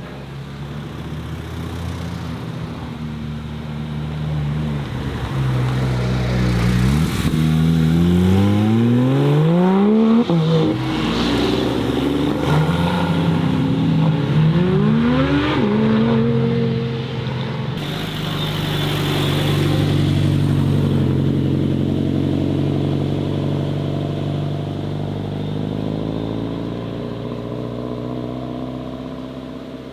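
A car engine accelerating hard as the car pulls away, its revs climbing steeply and dropping sharply at two gear changes. After that a steadier engine note runs on and slowly fades.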